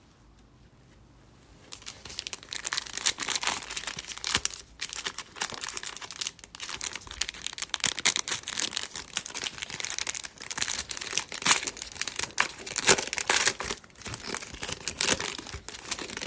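A baseball card pack's wrapper being torn open and crinkled by hand, starting about two seconds in and going on as a steady run of crackles and rustles.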